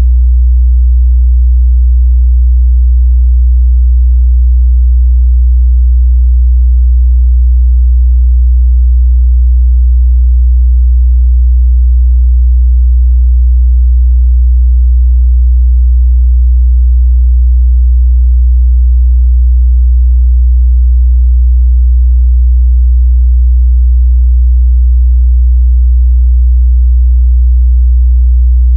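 A steady, loud 61 Hz sine-wave test tone, a single low bass hum held without change.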